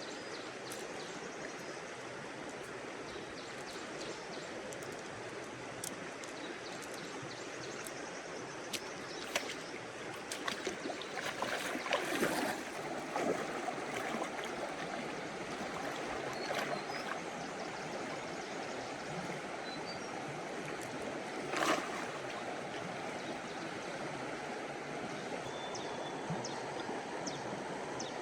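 Steady rush of flowing water, with a cluster of short, sharp splashes or knocks from about a third of the way in, and one more a little past two-thirds through.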